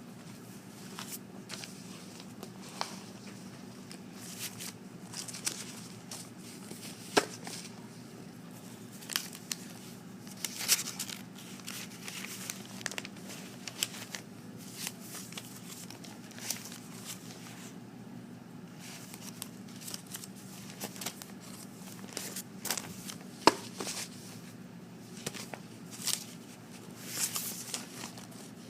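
Sheets of paper being handled and shuffled: irregular rustles, crinkles and light taps, over a steady low hum.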